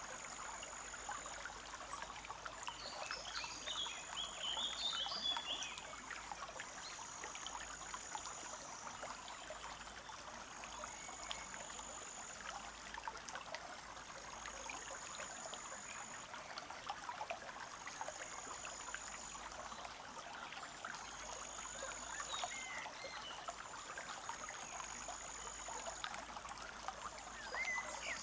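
Small forest stream trickling and bubbling steadily. Over it a high, thin buzz of about a second repeats every couple of seconds, and a bird chirps a few times about three to five seconds in and again near the end.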